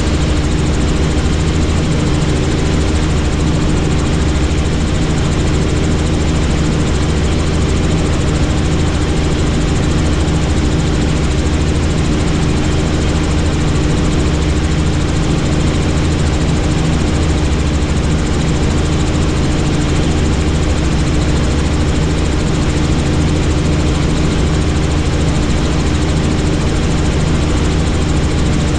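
Helicopter in flight heard from on board: a loud, steady drone of engine and rotor with low humming tones, unchanging in pitch and level.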